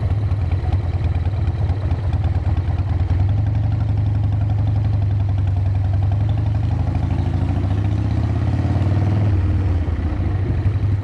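Harley-Davidson motorcycle's V-twin engine running under way, a dense steady pulsing. Its note climbs from about six seconds in and drops away about nine seconds in.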